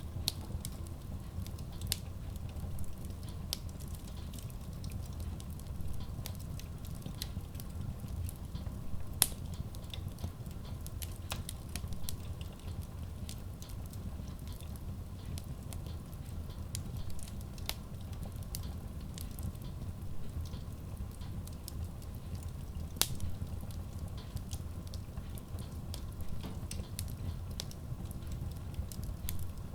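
Wood logs burning in a Kratki Koza K6 stove-fireplace: a steady low rumble with frequent small crackles and two sharper pops, about nine seconds in and near 23 seconds.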